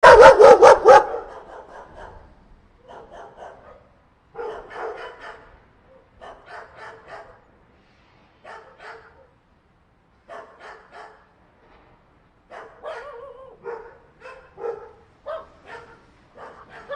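Dog barking: a loud burst of about five quick barks in the first second, then quieter bouts of three or four short barks every second or two.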